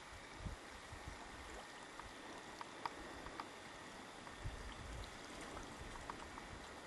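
Faint, steady rush of flowing river water, with a few small ticks and low bumps scattered through it.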